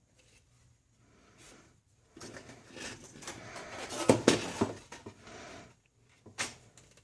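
Sheet metal and tools being handled on a work surface: a few seconds of rattling and scraping with several sharp metallic knocks, loudest a little past the middle, and one more knock near the end.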